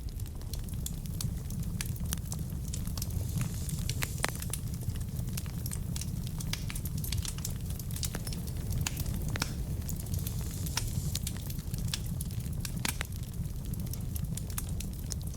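Wood fire burning in a fireplace: a steady low rumble of flames with frequent sharp crackles and pops from the burning logs, a few of them louder.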